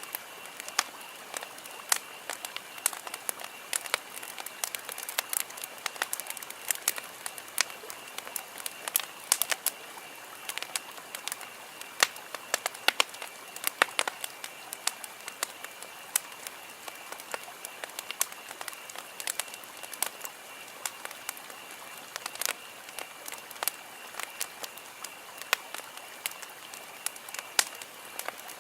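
Wood campfire crackling, with irregular sharp pops and snaps several times a second, over a steady faint high-pitched background tone.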